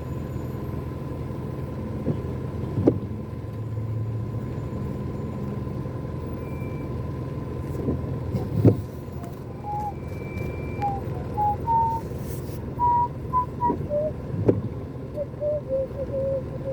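Car interior in slow traffic: a steady low engine and road rumble with a faint steady whine. Single thuds come about every six seconds, and a string of short, high pitched notes starts in the second half.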